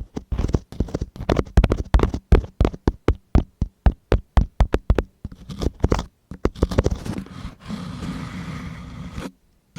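An ear-cleaning tool scratching and tapping close against a microphone, as in ear-cleaning ASMR. Quick scratchy strokes give way after about six seconds to a softer, steady rubbing, broken near the end by a brief moment of silence.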